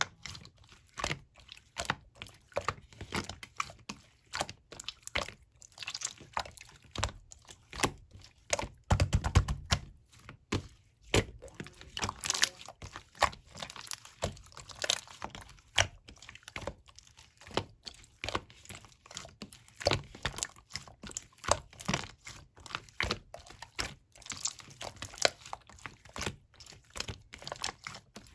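Clear slime being squeezed and poked by hand in the buttonhole technique, making a continuous, irregular run of sticky clicks and small air pops, loudest about nine seconds in.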